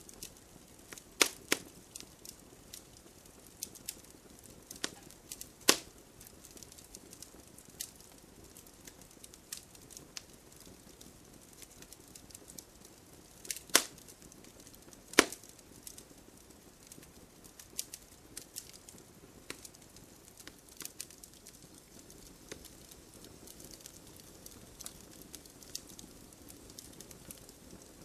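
Wood fire crackling in a fireplace: a soft steady hiss scattered with small irregular snaps and several loud pops, the loudest coming about one second in, around six seconds, and twice near the middle.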